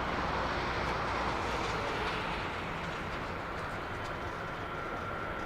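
Airbus A340-300's four CFM56 turbofan engines running at takeoff power: a steady rushing roar, with a thin whine coming in about four seconds in.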